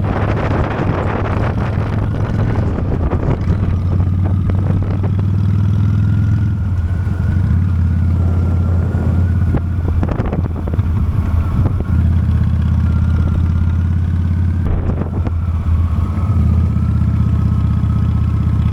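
Honda Steed V-twin motorcycle engine running at a steady cruising pace while being ridden, with wind rushing over the microphone, strongest near the start.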